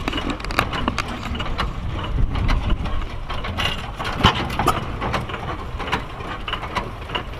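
Hit-and-miss stationary engine running, its steady low chugging broken by a string of irregular clicks and knocks from the engine's mechanism.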